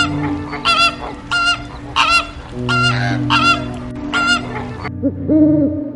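Flamingos honking: a run of about six goose-like honks, evenly spaced a little over half a second apart, over a steady low drone. Near the end a lower, different call begins.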